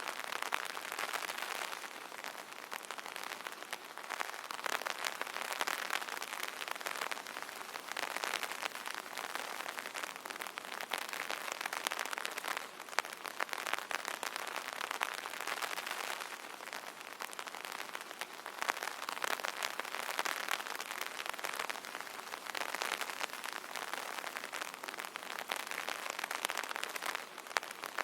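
Rain pattering on an umbrella canopy: a dense patter of drops, swelling and easing every few seconds.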